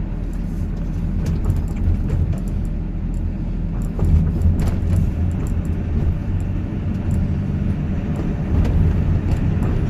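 Car driving along: a steady low engine and road rumble.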